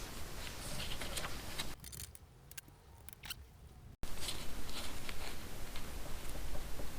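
Light, irregular clicks and taps of a socket wrench being fitted to and worked on a 10 mm bolt, with a near-quiet stretch in the middle that ends abruptly.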